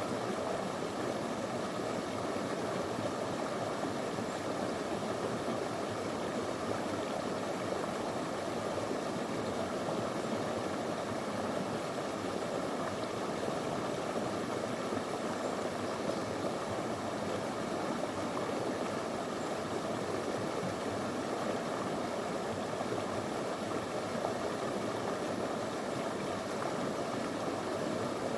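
Small river flowing over stones: a steady, unbroken rush of water.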